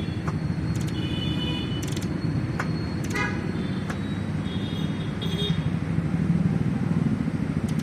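A motor vehicle engine running steadily, its rumble growing louder near the end. Several sharp metallic clicks and taps of hand tools sound over it, with a short ringing tone about three seconds in.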